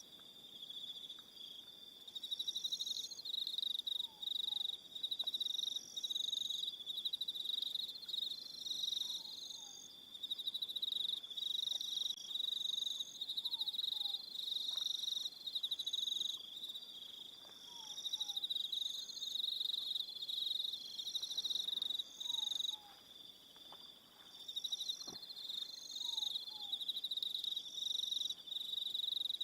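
A chorus of crickets trilling at a high pitch, swelling and falling in bursts every second or two. A faint, short two-note falling call repeats about every four to five seconds beneath it.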